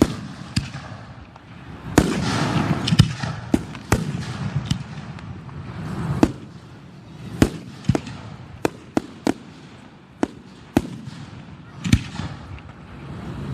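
Aerial fireworks bursting: a dozen or more sharp, uneven bangs, with a dense spell of crackling about two seconds in.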